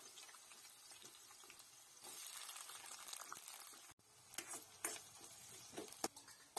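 Sliced onions and green chillies sizzling gently in hot oil in a kadai. From about four seconds in, a steel spoon stirs them, clicking and scraping against the pan a few times.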